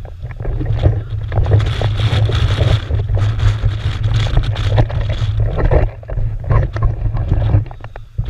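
Strong wind blowing across the microphone: a low rumble with gusts and crackling, easing for a moment about six seconds in.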